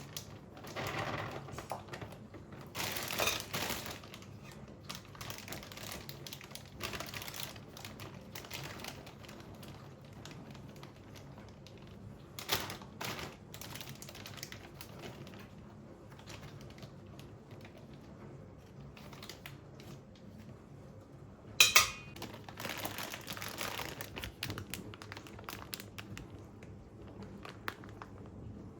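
Scattered light clicks, taps and rustles of small household objects being handled, with one sharp, louder knock about three-quarters of the way through.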